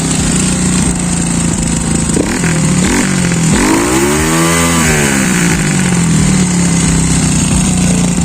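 Revit 250 dirt bike idling through its single exhaust. Two or three seconds in there is a short throttle blip, then one fuller rev around four seconds in, rising in pitch and falling back to a steady idle.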